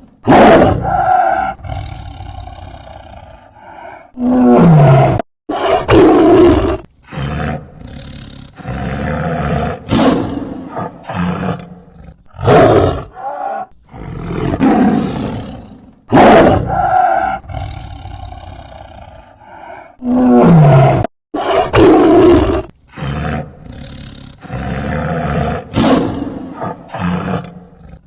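Tiger roaring and growling, a string of loud separate roars with abrupt cuts between them; the same sequence of calls plays twice.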